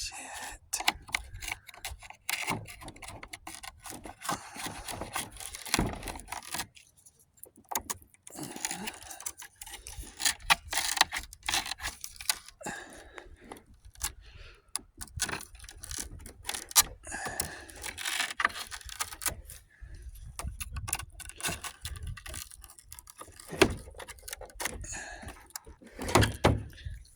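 Irregular clicks, scrapes and rustling of hands and a blade working on a Hoover Concept 1 vacuum's brush roll, clearing the matted debris packed around it.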